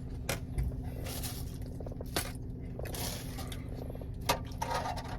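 Close-up eating noises from a mukbang: soft squishes and short clicks and scrapes, scattered irregularly, from chewing and from handling the food and its packaging.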